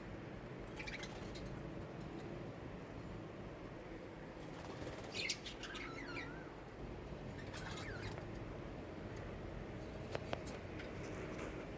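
Small birds chirping in short, scattered bursts every couple of seconds over a steady low background noise.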